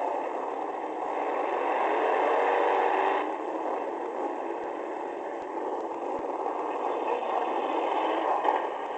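Demolition derby car's engine running while the car drives in the arena, heard through a hood-mounted onboard camera as a harsh, thin, steady noise, with a sharp knock near the end.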